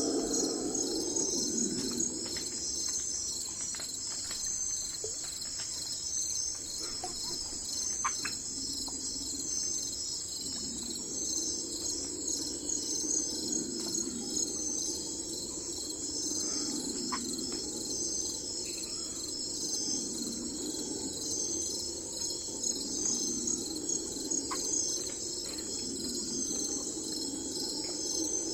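Crickets or other insects chirping in a steady, rapidly pulsing high chorus, over a low, uneven background noise, with a few brief single chirps.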